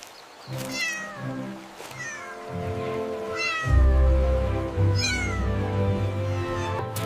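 Kitten meowing four times, each meow falling in pitch, over gentle background music that fills out with a bass line about halfway through.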